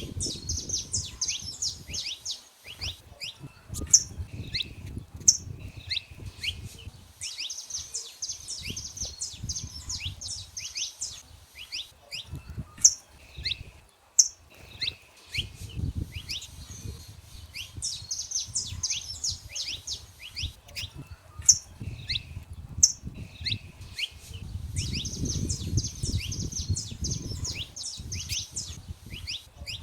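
Saffron finches singing: four bursts of rapid, high chirping trills, with single sharp chirps in between. A low rumbling noise runs underneath.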